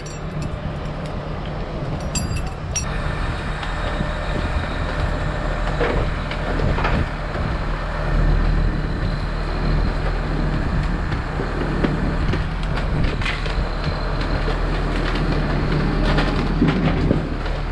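Engine running steadily with a low drone, with a few light clinks in the first few seconds.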